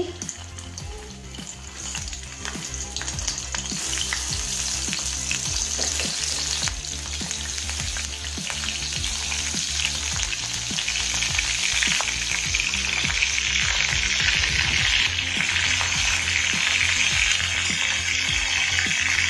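Stuffed small brinjals frying in hot oil in an aluminium kadhai, a sizzle that builds as more are added and is loudest in the second half, with small clicks and knocks as they go into the pan.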